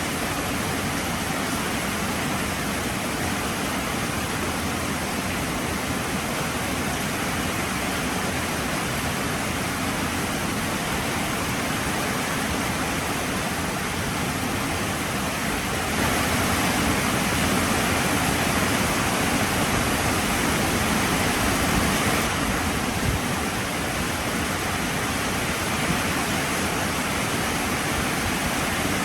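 Heavy rain falling steadily, a dense even hiss that grows a little louder for several seconds past the middle.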